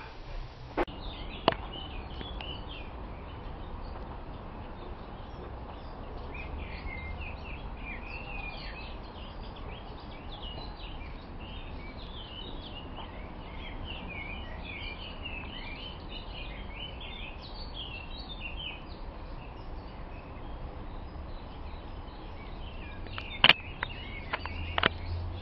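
Small birds chirping and twittering, many short calls overlapping through most of the stretch, over a steady low rumble. A few sharp clicks stand out near the start and again near the end.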